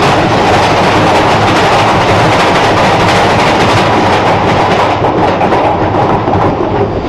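Washing machine running at high speed, most likely spinning, with a loud, steady rattling rumble.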